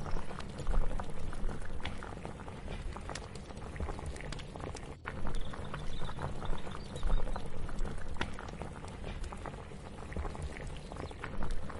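Kitchen cooking ambience: many small knocks and clicks of utensils and cookware over a steady low rumble, with something bubbling on the stove.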